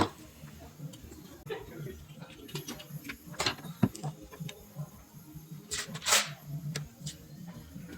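Hand tools and metal parts being handled in scattered clicks, knocks and a few short scrapes, over a low background hum.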